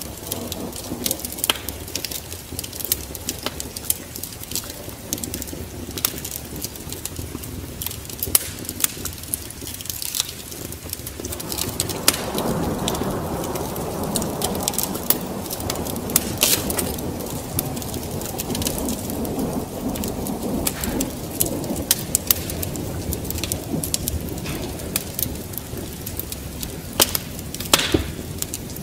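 Rain with the sharp pops and crackles of a wood fire. About twelve seconds in, a long low rumble of thunder swells and dies away near the end.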